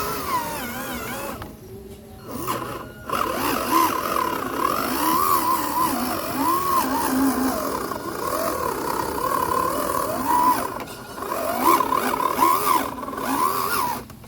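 Electric motors of a radio-controlled truck whining, their pitch rising and falling as the throttle is worked on and off, with a pause of about a second and a half near the start.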